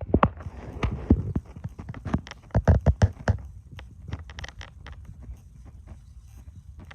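A run of sharp, irregular knocks like hard footfalls, loud and close together over the first three seconds or so, then fainter and sparser.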